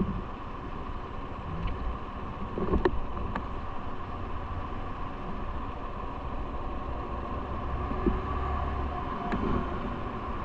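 Steady wind and road rumble from riding a bike, picked up on a moving action camera, with a few short sharp clicks.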